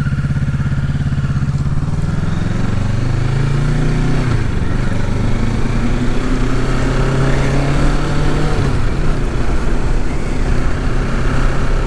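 Kawasaki Ninja 650's parallel-twin engine under way, its pitch rising as the bike accelerates, then dropping sharply about four seconds in before running steadily. Wind rushes over the microphone throughout.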